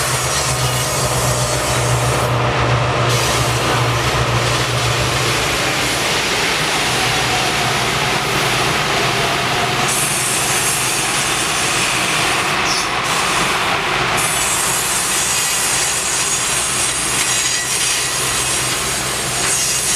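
Train of passenger cars rolling past, a steady rush of steel wheels on the rails. A low hum runs under it for the first few seconds.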